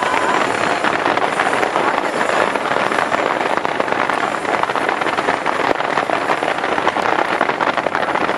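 Fireworks crackling: a dense, steady crackle of many small bursts with little deep boom.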